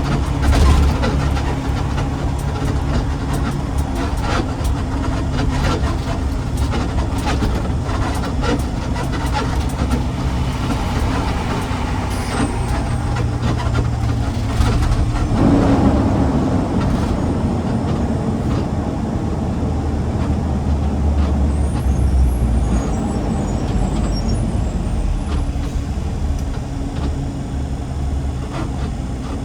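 Garbage truck engine running as the truck drives, with a brief hiss about twelve seconds in and a change in the engine note about fifteen seconds in.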